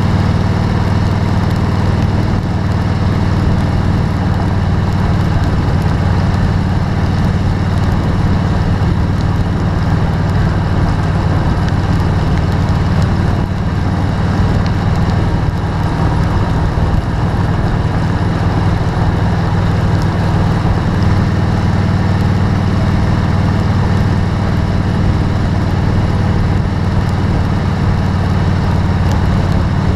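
A car's steady low drone of engine and road noise, with a hiss of rain over it.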